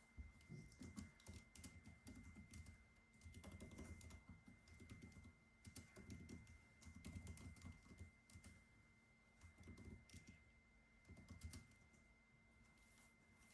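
Faint typing on a computer keyboard, with quick key clicks in short runs and brief pauses between them.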